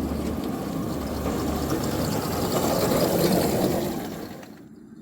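Small electric locomotive and cars rolling along 7-1/4 inch gauge miniature railroad track, giving a steady rushing running noise that swells and then falls away sharply near the end.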